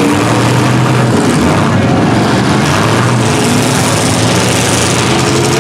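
Engines of several small trucks, vans and SUVs running and revving at once in a demolition derby, loud and dense, their pitches rising and falling over each other.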